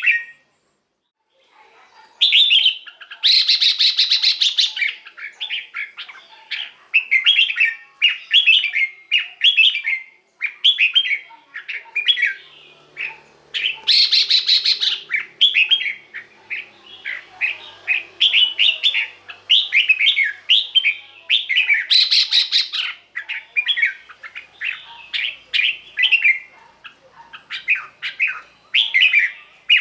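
Red-whiskered bulbul singing: quick, repeated runs of bright whistled phrases, broken by several louder, harsher bursts, after a brief pause near the start.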